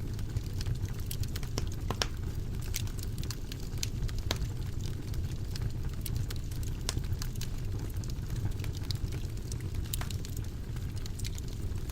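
Wood fire burning in a fireplace: a steady low rumble of flames with frequent small irregular crackles and pops.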